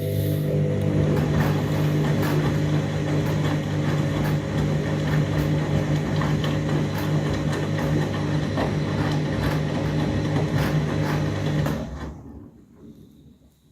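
Overloaded washing machine running: a steady motor hum with a noisy churning of the drum over it. The sound fades away about twelve seconds in.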